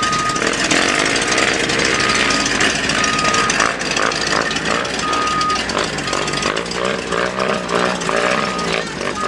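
A vehicle's reversing alarm sounds a repeated single-pitch beep over a steady din of voices and outdoor noise.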